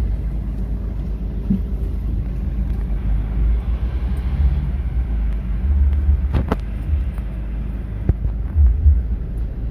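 Mercedes-Benz Sprinter minibus driving, heard from among the seats: a steady low rumble of engine and road. A couple of sharp rattles or knocks come about six and a half and eight seconds in.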